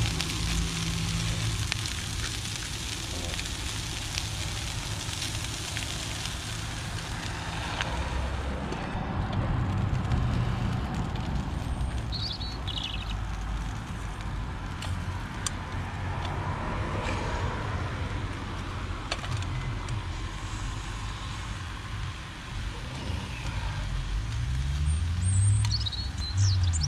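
Gas-canister camping stove burner running under a pan of mushrooms and onions, the food sizzling steadily, with a plastic spatula stirring and scraping the pan now and then.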